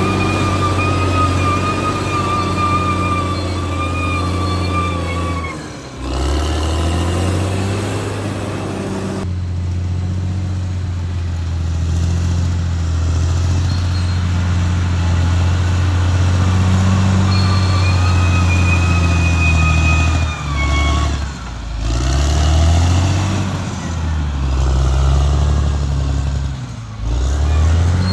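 Caterpillar D6R XL bulldozer's diesel engine running at working speed with a steady low drone. Engine speed dips and recovers several times, and a thin high whine rides over it in the first few seconds and again later on.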